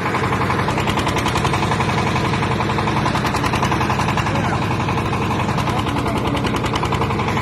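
Backhoe's diesel engine running steadily, a rapid, even pulse.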